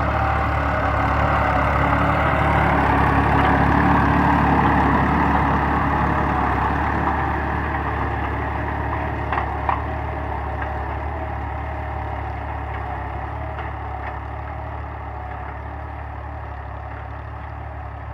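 Massey Ferguson 260 Turbo tractor's three-cylinder diesel engine running steadily while working with a cultivator. It is loudest about four seconds in, then gradually fades. Two short knocks sound about nine and a half seconds in.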